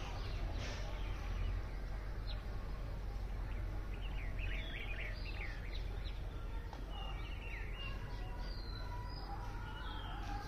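Small birds chirping in short high calls, with a brief flurry of chirps about four seconds in, over a steady low background rumble.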